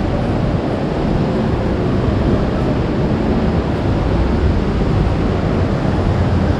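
Steady low rumble and hiss of a busy railway station hall, with no single sound standing out.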